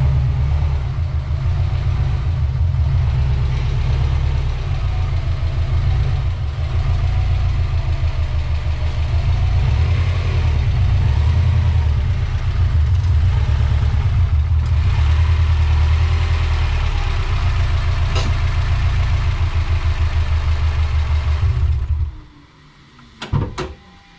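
Subaru Forester's EJ20 turbo flat-four engine running at low speed with a steady, pulsing low rumble as the car creeps forward onto blocks, then switched off about 22 seconds in. A couple of short knocks follow near the end.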